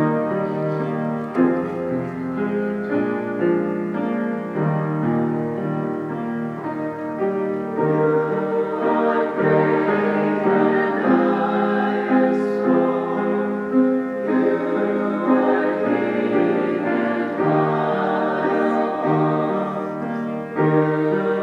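Piano music playing held chords that change every second or so.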